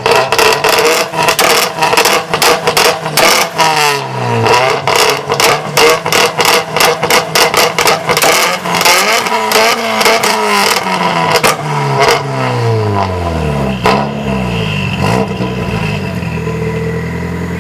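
A car's aftermarket exhaust with the engine revved over and over, pitch climbing and falling several times, with many rapid sharp crackles over the revs. About fifteen seconds in the revving stops and the engine settles to a steady idle.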